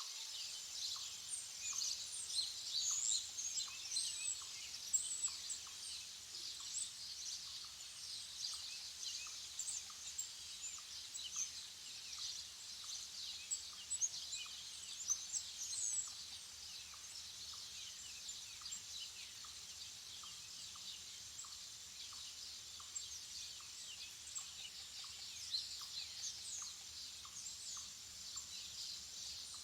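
Morning chorus of many small songbirds chirping and calling at once, a dense overlapping mix of short high notes, busiest in the first half. A fainter, lower single note repeats steadily about every half second underneath.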